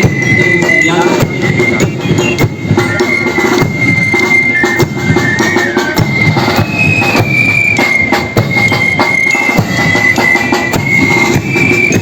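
Marching drum-and-bugle band playing: bass drum and snare drums beating a steady march rhythm under bugles holding high, shifting notes.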